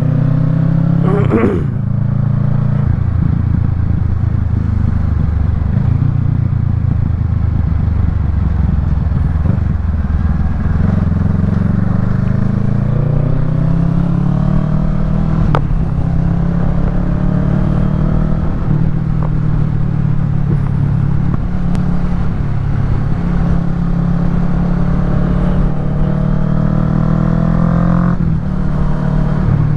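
Kawasaki Ninja 650's parallel-twin engine through a Yoshimura Alpha full exhaust, running under way while riding. Its pitch rises and falls several times as the bike accelerates and changes gear, over a low rumble of road and wind.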